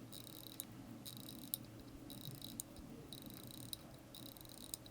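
Crown of a manual-wind mechanical watch being wound, its ratchet giving faint runs of fine clicking about once a second, one run per turn of the crown, as the stopped mainspring is wound up.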